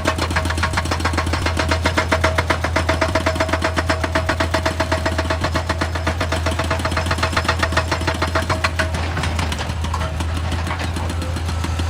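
Excavator engine running under a rapid, even hammering of about ten strokes a second with a ringing tone, typical of a hydraulic rock breaker at work; the hammering stops about nine seconds in and the engine runs on.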